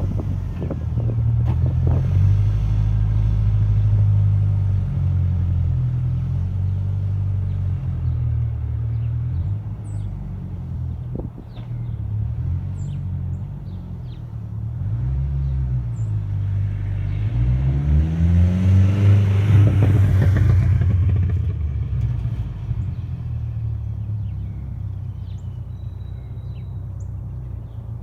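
1996 Ford Ranger's 2.3-litre four-cylinder engine running through its exhaust with a low rumble at idle. A little over halfway through it is revved, the pitch rising and getting louder for a few seconds, then drops back to a steady idle.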